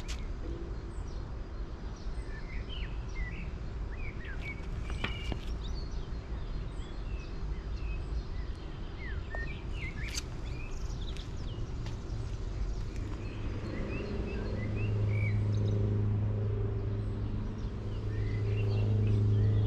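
Birds chirping, scattered short calls over steady outdoor background noise, with a couple of sharp clicks. About three-quarters of the way through, a low steady hum comes in and grows louder.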